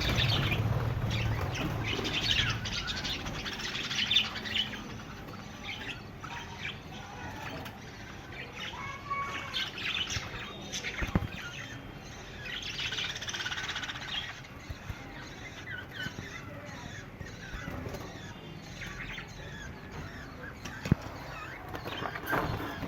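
Budgerigars chirping and chattering in a breeding colony, in scattered bursts of warbling, with a couple of sharp knocks partway through.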